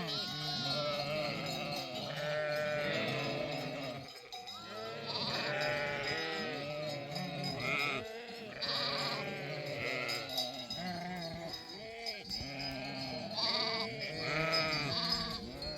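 A flock of sheep and lambs bleating, many calls overlapping one another without a break, with sheep bells ringing among them.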